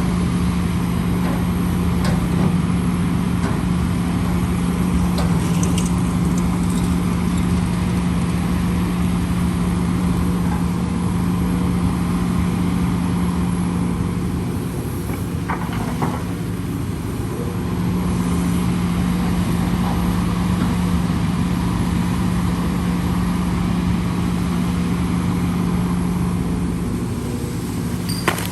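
Heavy earthmoving machinery's engine running steadily with a deep constant drone. Its note drops away for a few seconds around the middle, with a few short knocks, then returns.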